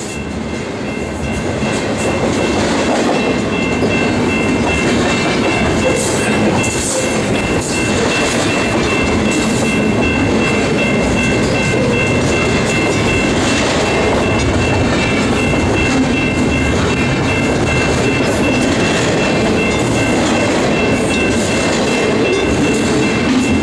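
Double-stack intermodal freight train's well cars rolling past: steel wheels on rail making a steady loud noise with scattered clicks and knocks, and a thin steady high tone above it. It grows louder over the first few seconds, then holds.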